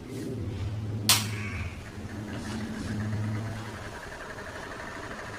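Small DC motor humming steadily as it runs, with one sharp click about a second in.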